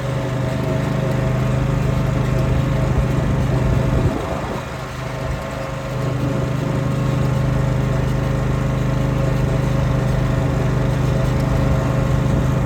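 Husqvarna R316TsX AWD rider's engine running steadily, dropping in level about four seconds in and picking back up about two seconds later.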